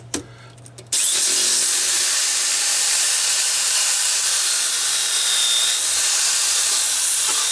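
Makita electric belt file sander switching on about a second in and running steadily, its belt grinding down weld and steel on the car's shock tower plate. It makes a loud, even hiss with a faint high whine that wavers slightly. The belt is worn down enough to need changing.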